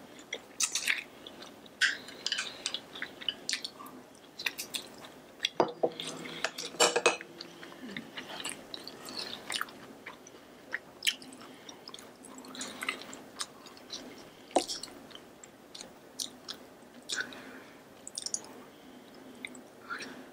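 Close-miked chewing and biting of food: irregular wet mouth clicks and crunches, loudest about six to seven seconds in.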